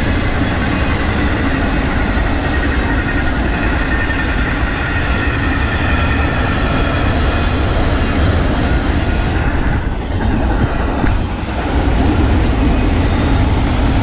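Double-stack intermodal freight train rolling steadily past, with a continuous rumble of wheels on the rails from the container well cars.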